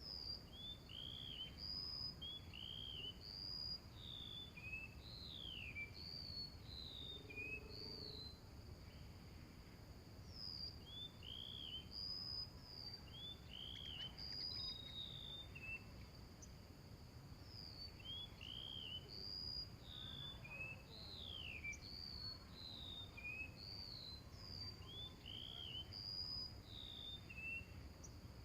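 Small songbirds chirping: repeated short arched chirps and down-slurred whistles in phrases, over a steady high-pitched insect drone.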